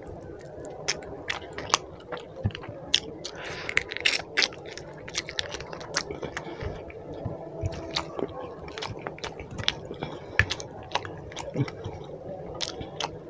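Close-up sounds of a person eating chicken curry and roti by hand: chewing and biting, with many wet mouth clicks and smacks at an irregular pace.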